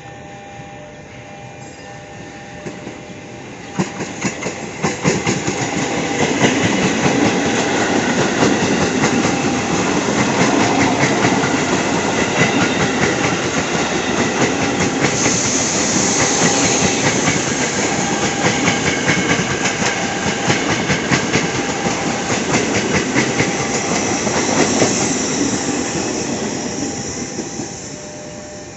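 A train passing close by, with wheels clattering rapidly over the rail joints. The sound builds up about four seconds in, stays loud for some twenty seconds and fades away near the end.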